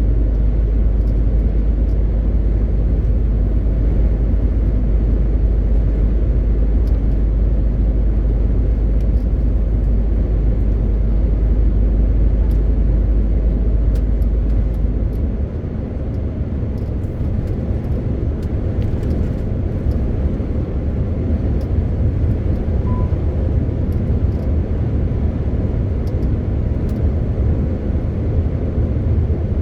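MAN TGX 18.520 lorry's 12.4-litre straight-six diesel running at road speed: a steady low drone with tyre and road noise. About halfway through, the deepest rumble drops away and the engine note turns a little higher and quieter.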